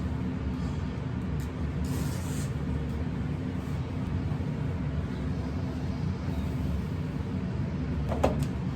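A steady low hum, with a short hiss about two seconds in and a sharp click near the end.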